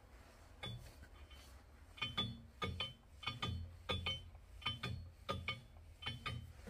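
Crankshaft counterweight of a 502 big-block Chevy scraping against the engine block as the crank is turned by hand: faint repeated metallic ticks with a slight ring, often in close pairs, about once or twice a second. The rubbing comes from high spots on the block catching the counterweight.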